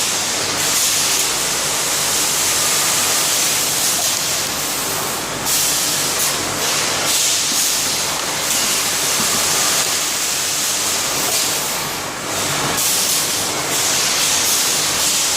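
PSA-100 sock labelling machine running: a loud, steady hiss with mechanical noise underneath, dipping briefly a couple of times.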